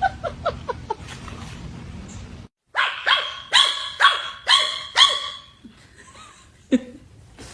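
Small dog barking: a few short high yips at first, then a burst of about six sharp, high-pitched barks in quick succession, and one more bark near the end.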